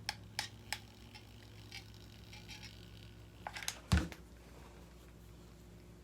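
Handling noises from hot-gluing rope by hand: a few light clicks, then a run of clicks ending in a single knock about four seconds in, over a steady low hum.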